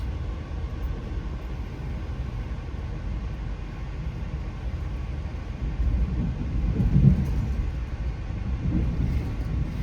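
Moving Amtrak passenger train heard from on board: a steady low rumble of the wheels on the rails, swelling briefly about two-thirds of the way through.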